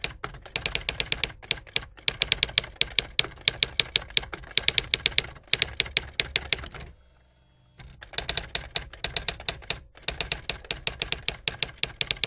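Rapid typing: a fast, uneven run of key clicks, with a pause of almost a second about seven seconds in.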